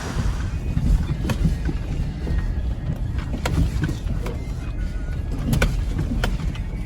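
Chevrolet Suburban driving slowly over a rough dirt road: a steady low rumble with scattered knocks and rattles.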